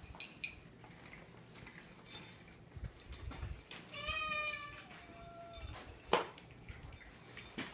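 Domestic cat meowing: one clear meow about four seconds in, followed by a fainter call. A single sharp click comes about six seconds in.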